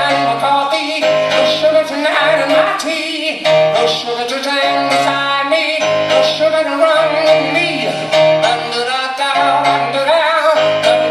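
Live rock band playing a passage without lyrics: a held, wavering lead melody over a pulsing bass line and full band backing.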